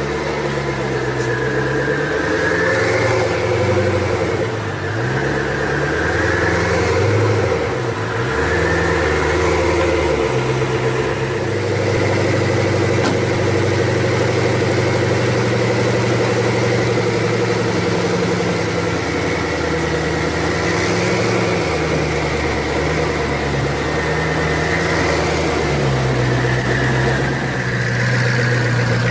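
Koenigsegg One:1's twin-turbo V8 idling steadily, its engine note shifting slightly several times.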